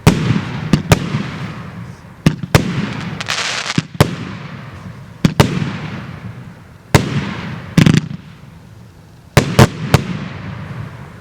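JF C30-36/06 "Admiral" 36-shot, 1.2-inch consumer fireworks cake firing its last shots: sharp bangs about every second, some in quick pairs or threes, each followed by a fading hiss of the burst effects. The shots stop near the end.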